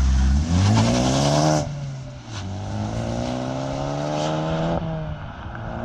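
A car engine accelerating hard through the gears: its pitch climbs, drops at an upshift about one and a half seconds in, climbs more slowly, then drops at another shift near the end and climbs again.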